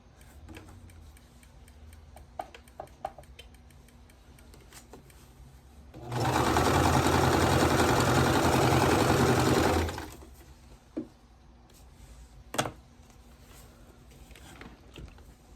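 Electric sewing machine stitching a seam, running steadily at speed for about four seconds from around the middle. A few light clicks and taps of handling the fabric come before and after it.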